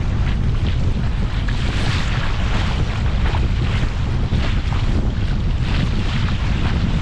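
Wind buffeting the microphone in a steady, uneven low rumble, with a rushing, splashy hiss over it that comes and goes in gusts.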